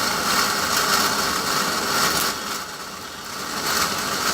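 A machine running with a steady mechanical noise that dips for about a second midway, then picks up again.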